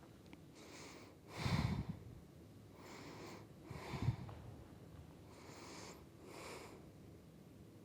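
A person breathing audibly in and out through the nose into a close microphone, several slow breaths while holding a strenuous yoga pose, the strongest about one and a half seconds in.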